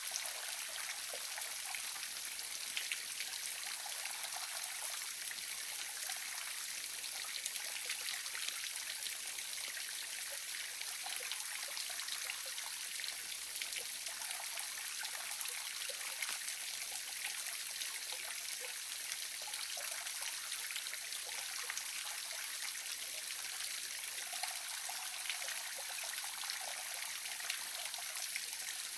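Small waterfall splashing and trickling steadily, a continuous hiss of falling water with fine splashes and little low rumble.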